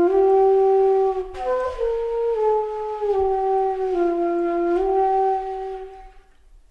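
Background music: a slow solo melody in a flute-like tone, long held notes stepping up and down without any beat, the phrase fading away near the end.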